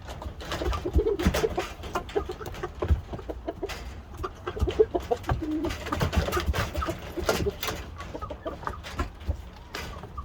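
White Shamo chickens clucking: many short, low calls scattered throughout, mixed with frequent sharp taps and clicks.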